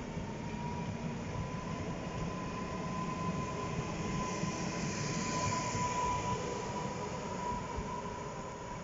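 Electric multiple-unit passenger train running along the station track: wheels rumbling on the rails with a steady high whine over it. The sound swells to its loudest about five to six seconds in, then eases.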